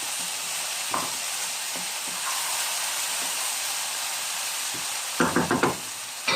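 Chicken with chopped tomato and potato sizzling in oil in a frying pan as it is stirred: a steady frying hiss with light scrapes of the stirring utensil. A brief louder sound comes about five seconds in.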